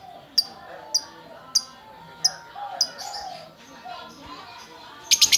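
Female lovebird calling in sharp, high chirps, about one every two-thirds of a second, then near the end breaking into a fast, loud string of rapid chirps, about a dozen a second.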